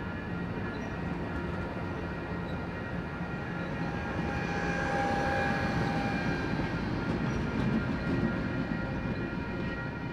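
Passenger train rolling past, a rumbling noise that builds to its loudest about halfway through and then eases off.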